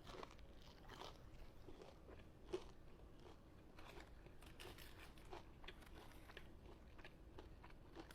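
Faint close-up eating sounds: a person chewing Wingstop fries with cheese sauce, with irregular soft crunches and wet mouth clicks, and one sharper click about two and a half seconds in.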